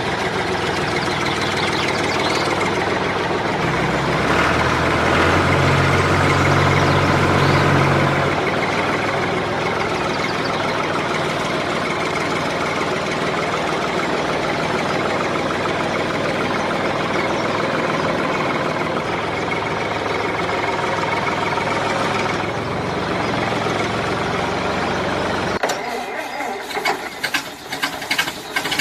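Engine running steadily, louder for a few seconds near the start, then turning choppy and stuttering near the end.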